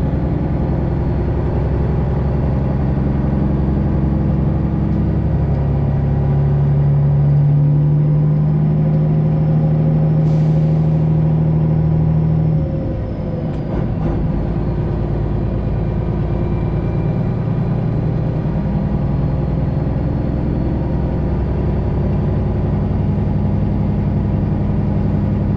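Semi truck's Detroit Diesel 12.7 engine running under light throttle as the truck is maneuvered at low speed. The engine pitch rises about five seconds in and holds, then drops off sharply around twelve seconds in, with a brief sharp click just before.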